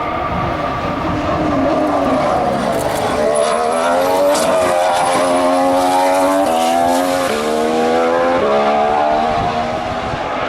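2014 Formula One car's 1.6-litre turbocharged V6 accelerating past, its pitch climbing and dropping sharply at each of about three quick upshifts in the second half. A lower engine note falls away about a second in.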